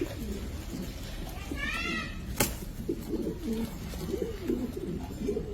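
Dove cooing in low, wavering phrases through the second half. A brief higher-pitched arching call comes about two seconds in, and a single sharp click just after it is the loudest moment.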